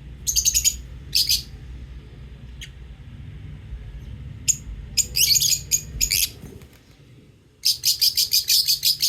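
Lovebirds chirping in quick bursts of rapid, high-pitched chirps with short pauses between, the longest run near the end. A faint low hum lies underneath.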